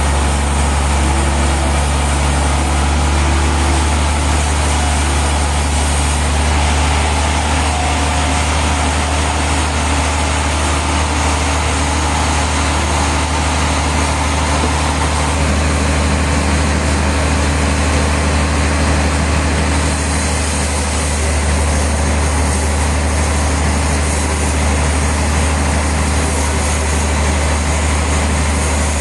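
Sawmill machinery running steadily: a loud, even heavy-engine drone with a dense wash of mechanical noise over it.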